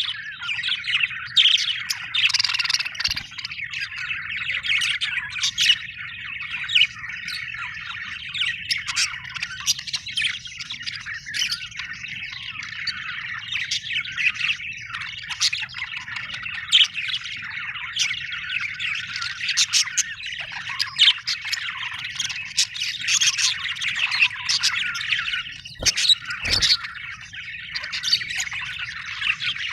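Budgerigars chattering without a break, a dense warble with many sharp chirps and squawks. A couple of dull knocks stand out, one about three seconds in and one near the end.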